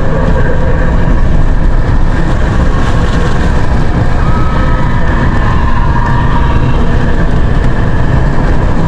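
A vehicle driving, with a steady loud rumble of engine and road noise.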